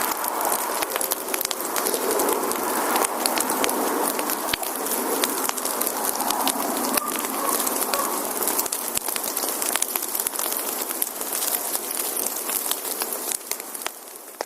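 Wood campfire burning, with dense crackling and many sharp pops from the burning logs; it fades out near the end.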